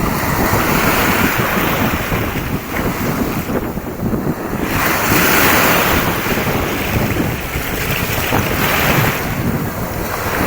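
Wind buffeting the microphone over the rush of sea waves, the hiss of the water swelling and easing every few seconds.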